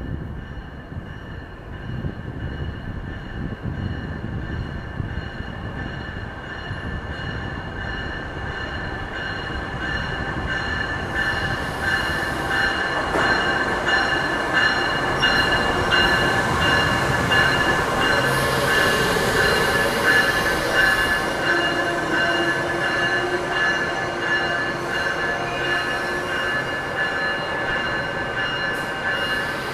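Amtrak Siemens ACS-64 electric locomotive and its Amfleet coaches arriving and slowing along a station platform, with a steady high-pitched squeal over the rumble of the train. It grows louder as the locomotive passes about halfway through, with a quick rhythmic clatter of wheels, then eases as the train comes to a stop.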